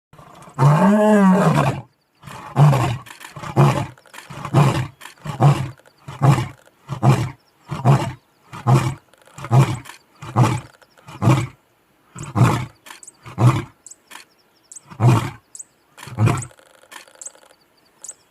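Lion roaring: one long moaning call, then a long series of short grunts at about two a second that space out and fade towards the end.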